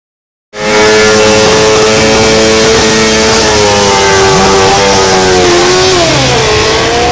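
Motorcycle engine held at high revs. About six seconds in the revs sag sharply and then pick up again.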